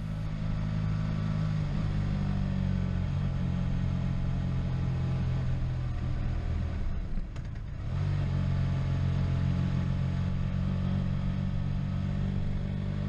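Motorcycle engine running steadily under load while riding uphill, heard from the bike with wind noise. About seven seconds in the engine note eases off briefly, then picks up again.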